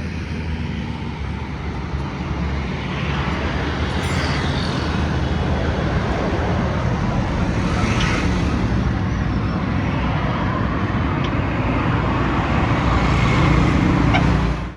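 Busy road traffic: heavy vehicle engines running steadily under a constant wash of traffic noise, growing louder toward the end.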